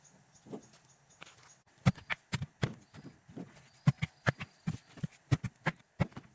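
A quick, uneven run of sharp, hollow knocks, about three a second, starting about two seconds in after a few fainter ones.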